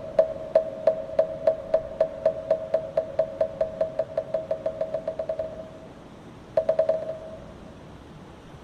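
Moktak, the hollow wooden temple block of Buddhist chanting, struck in a steady run that speeds up into a quick roll and stops, followed by a short fast flurry of strikes about a second later. Each strike is a clear hollow knock at one pitch.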